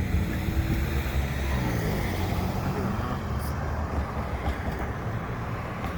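Low, steady rumble of a motor vehicle, with a faint engine note that drops in pitch about two seconds in.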